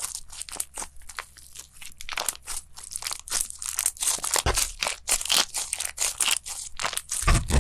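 Crunchy slime being worked: a dense run of crackling clicks and pops, with low thuds about four and a half seconds in and again near the end.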